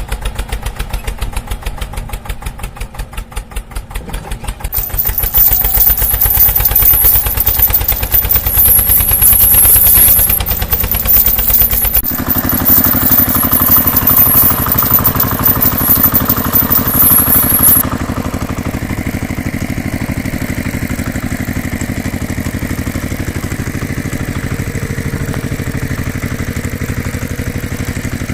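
Engine running with a rapid, even chugging beat, getting louder about five seconds in, changing pitch about twelve seconds in, and settling to a quieter, steadier run about eighteen seconds in.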